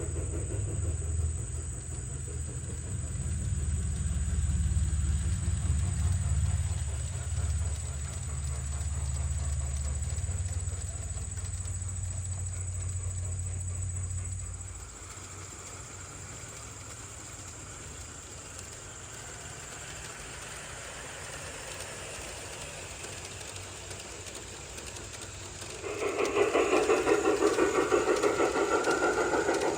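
Garden-scale model train running, with a steady low engine-like rumble that drops away about halfway. A louder pulsing engine sound starts near the end.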